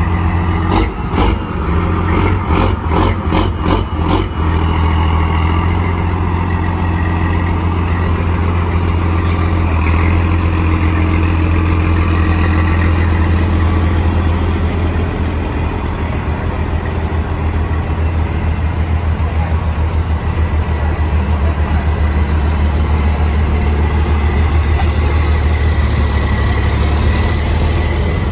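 Heavy diesel engine of a racing truck running steadily, a loud low drone that holds one pitch. A quick series of sharp clicks sounds over it in the first few seconds.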